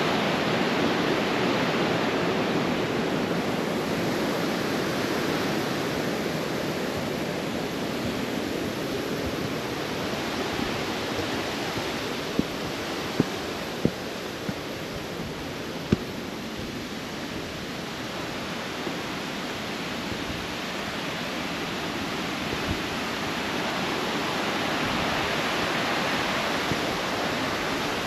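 Creek water rushing and cascading over small falls in a steady, even rush that fades somewhat through the middle and swells again near the end. A few sharp clicks come about halfway through.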